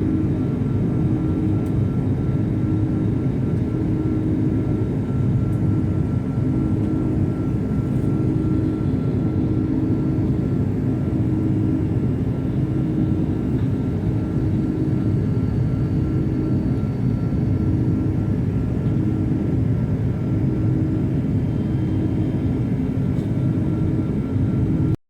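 Airbus A330 airliner in flight, heard from inside the passenger cabin: a steady, low rumble of jet engines and rushing air, with a faint hum of steady tones above it.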